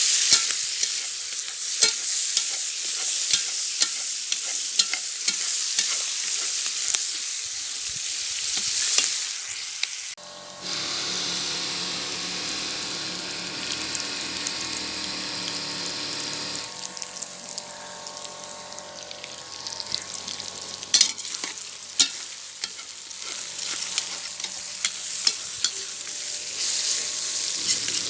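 Food sizzling and frying in a kazan over a campfire, a steady hiss dotted with sharp crackles. For about six seconds in the middle it gives way to a steadier humming sound.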